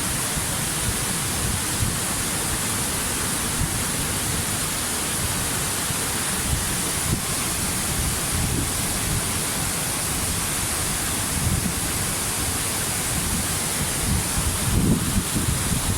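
Waterfall: steady rushing roar of falling water, with a churning low rumble that surges a few times near the end.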